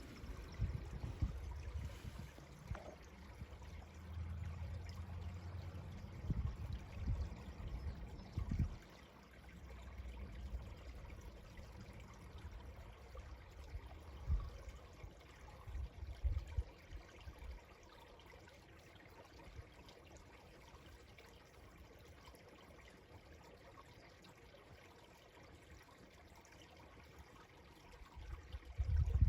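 A shallow stream trickling faintly, with low rumbling bumps during the first half.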